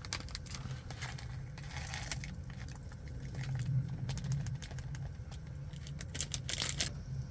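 Handling noises: scattered clicks and crinkling rustles, with a cluster of quick clicks about six to seven seconds in, over a steady low rumble.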